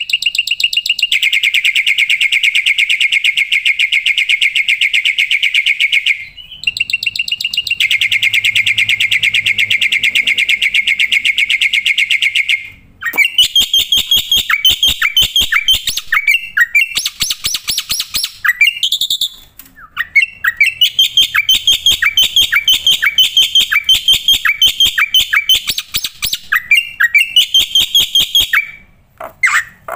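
Black-winged starling (jalak putih) singing loudly in a full, mimicry-rich song: long runs of very rapid repeated chattering notes, broken by short pauses about six and thirteen seconds in, then a more varied string of short separate calls.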